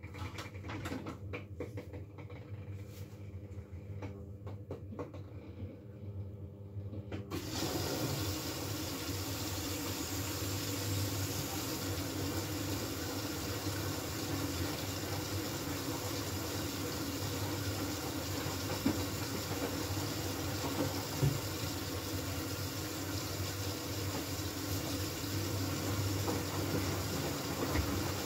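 Miele W433S washing machine at the start of a high-water rinse: a low hum with light clicks, then about seven seconds in the water inlet valve opens suddenly and water rushes into the drum with a steady hiss.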